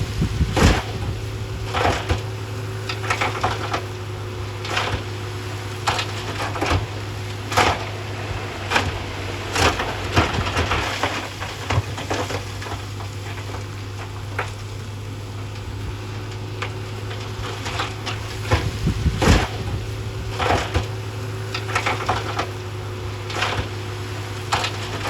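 Heavy earthmoving machinery running with a steady low engine hum, overlaid by irregular knocks, cracks and clattering of rock being pushed and tumbling.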